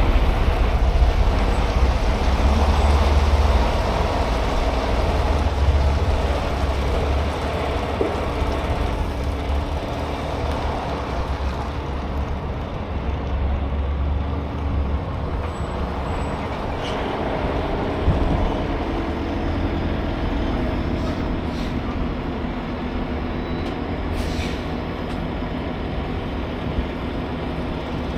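Semi truck's engine running with road noise, a steady low rumble that eases off about halfway through.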